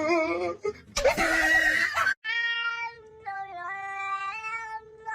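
A cat meowing: a few wavering meows, a harsh loud outburst about a second in, then one long drawn-out yowl held for about three seconds.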